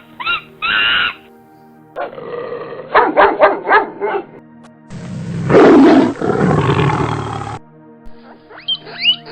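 A string of different animal calls over steady background music: short calls at the start, a run of quick pulsed calls, then the loudest, a long harsh call about five seconds in, and quick rising calls near the end.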